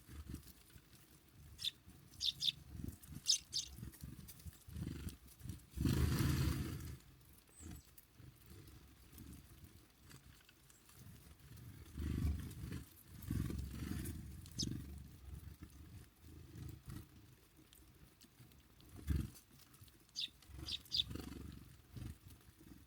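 Small songbirds at a feeder giving short, high chirps in two quick clusters, near the start and near the end, over intermittent low rumbling noise, with a loud burst of noise about six seconds in.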